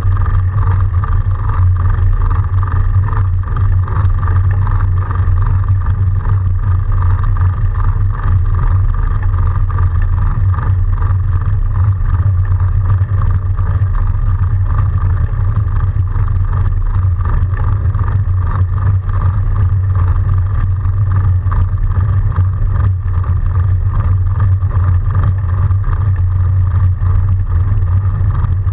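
Steady, loud rumble with a hum running through it, from riding an electric-assist fat bike through snow.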